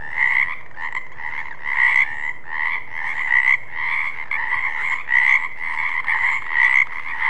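Frogs croaking: a steady trilling call with louder pulsed croaks repeating about twice a second.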